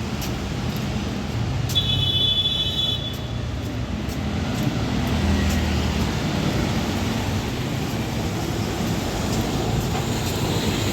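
Road traffic noise with vehicle engines running, and a brief high-pitched tone about two seconds in that lasts about a second.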